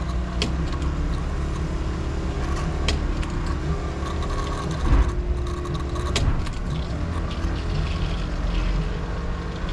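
Semi-truck diesel engine idling steadily, with a few sharp clicks and a louder knock about five seconds in.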